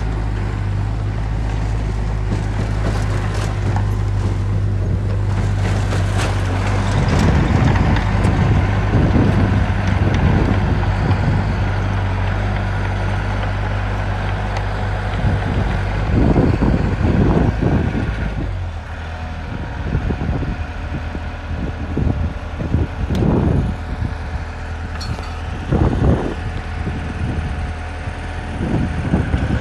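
Diesel engine of heavy construction equipment (bulldozer or dump truck) running steadily, with irregular louder bursts; its low hum drops and gets quieter about two thirds of the way through.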